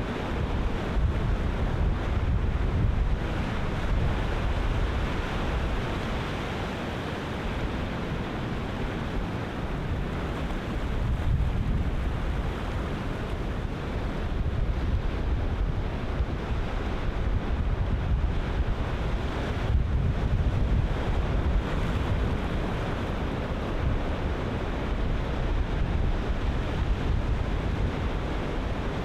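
Ocean surf breaking continuously in slow swells, with wind buffeting the microphone as a low rumble.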